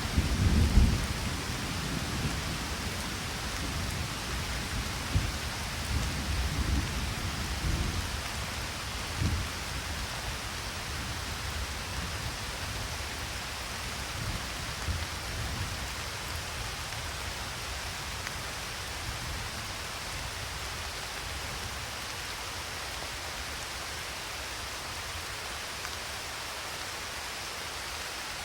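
Steady rain with rolling thunder: low rumbles, loudest at the start, die away over the first nine seconds or so, leaving only the even hiss of rainfall.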